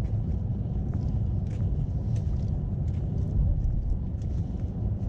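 Footsteps along a walking trail, roughly one every half second, over a steady low rumble.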